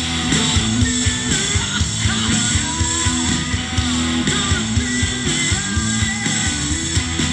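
Live rock band playing: electric guitars, bass and drums with a steady beat and a gliding guitar line over the top.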